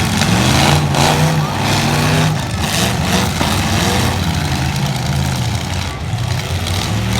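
Engines of several light trucks in a demolition derby revving up and down together, with a few collision impacts among them.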